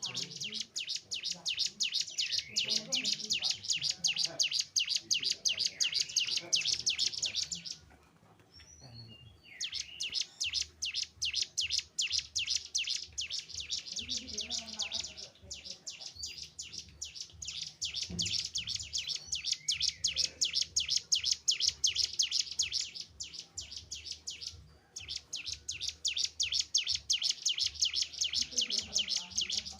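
A cigun (ciblek gunung, a hill prinia) singing long, fast trills of sharp repeated chirps. The phrases last several seconds, with short pauses about 8, 15 and 25 seconds in.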